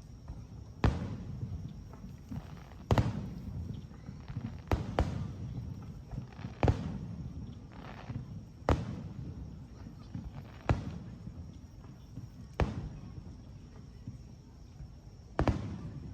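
Aerial firework shells bursting, nine sharp bangs spaced about two seconds apart, each fading into a low rumble.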